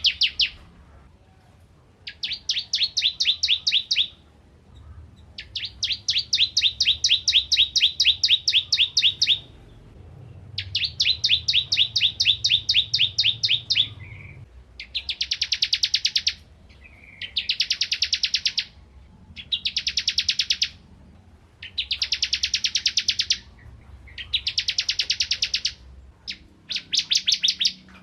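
Ciblek kristal (crystal prinia) singing in full voice: bursts of rapid, high, sharp notes, one to four seconds long, repeated with short pauses. The earlier phrases are a fast stutter of separate notes; the later ones are a denser, trilling run.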